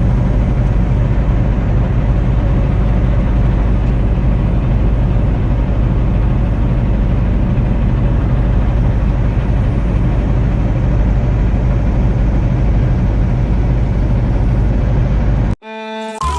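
Steady engine and road rumble heard inside a moving vehicle's cab, deep and unbroken. It cuts off abruptly near the end, and string music begins.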